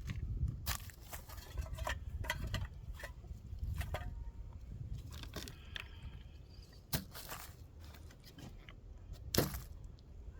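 Rustling and scattered light clicks and clinks, with a sharper knock a little over nine seconds in.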